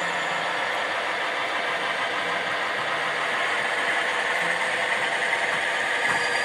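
Piko BR364 model locomotive's DCC sound decoder playing a recorded diesel shunter engine idling steadily through the model's small loudspeaker, thin in the bass.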